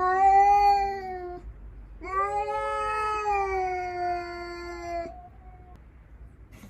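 Cat yowling in a territorial standoff with a stray cat. There are two long, drawn-out yowls, the second about three seconds long and sinking slowly in pitch.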